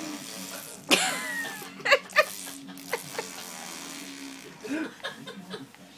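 A toddler's vocal imitation: a sudden squealing cry with falling pitch about a second in, followed by a few short, sharp vocal bursts and some quieter noises.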